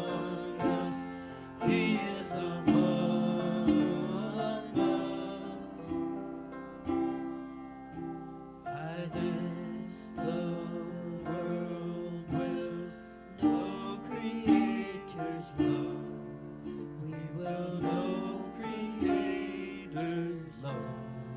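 Music played on plucked acoustic guitar, with notes struck about once a second.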